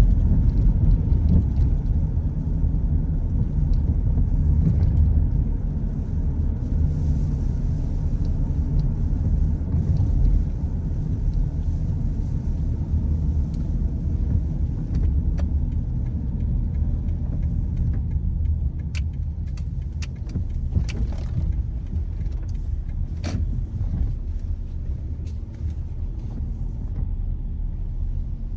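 Car driving on a wet road: steady low rumble from the road and engine, easing slightly over time, with a few light clicks in the second half.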